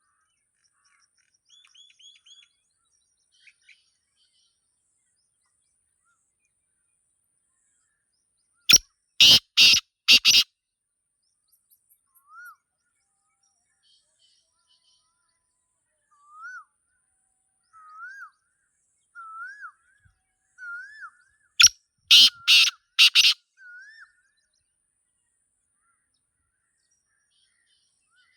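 Black francolin calling: two loud bursts of short, harsh grating notes, one about nine seconds in and another around twenty-two seconds. Faint chirps and a string of short rising whistled notes from other small birds come between them.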